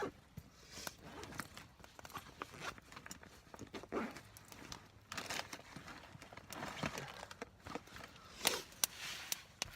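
Irregular rustling, crinkling and light knocks of camp gear being handled, loudest about four, five and eight and a half seconds in.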